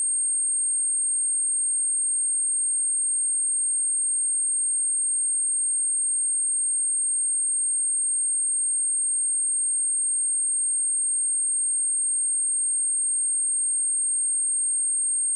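A single steady 8571 Hz sine-wave test tone: a constant, high-pitched pure whistle-like tone at even level, used for speaker testing and to shake water and dust out of a speaker.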